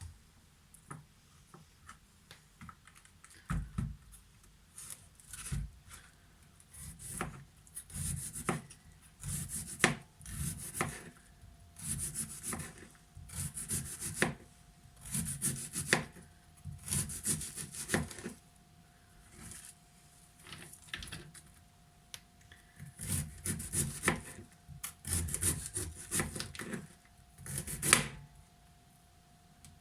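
Knife slicing through a head of red cabbage on a cutting board: crisp, rasping crunches in irregular runs of strokes, with short pauses between runs.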